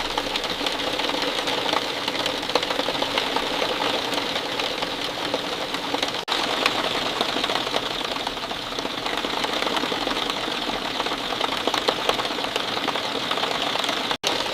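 Steady falling rain: a dense patter of many small drop impacts, breaking off for an instant about six seconds in and again near the end.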